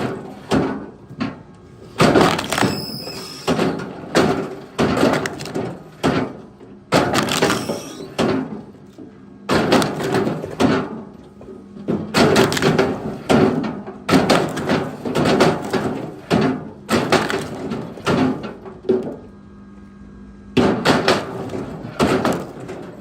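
Chunks of wood being handled and thrown down one after another: a run of hard wooden knocks and thuds, about one or two a second, with a short lull near the end.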